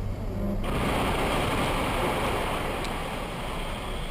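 Steady rushing road and engine noise heard inside a moving vehicle, cutting in abruptly about half a second in.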